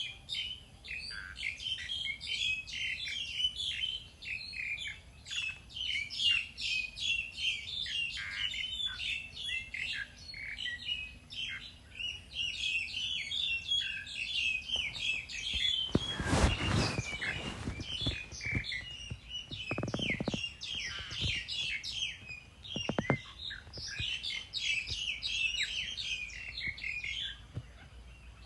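A flock of small birds chirping and twittering constantly in quick overlapping calls. About halfway through a louder rough, rattling noise lasts a second or two, and two shorter ones follow a few seconds later.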